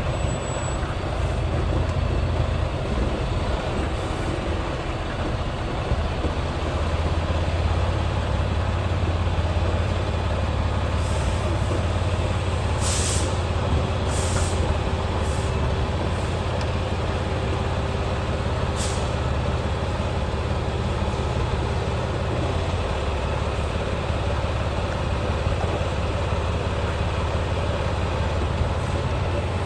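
Semi truck's diesel engine running steadily at low revs while the tractor-trailer backs slowly, with a few short air hisses about 13, 14 and 19 seconds in.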